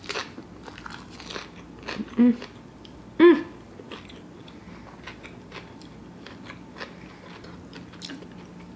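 Mouth sounds of a person biting and chewing a nori-wrapped bite of sushi bake: soft crunching and wet chewing with scattered faint crackles. Two short hums about two and three seconds in.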